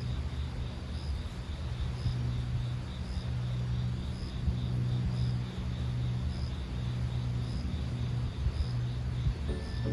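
Insects trilling steadily, with a higher chirp repeating about once a second, over a low steady rumble. Music comes in near the end.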